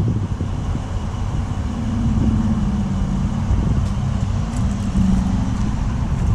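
Dodge Durango R/T's 5.7-litre Hemi V8 idling with a steady low rumble, its pitch lifting slightly a couple of times.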